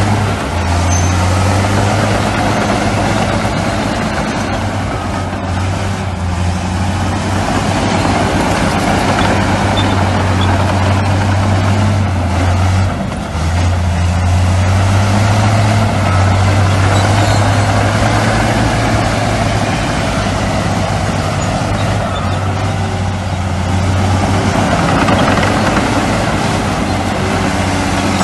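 Heavy diesel engine of earthmoving machinery running steadily under load, a low drone with a short dip in level about thirteen seconds in.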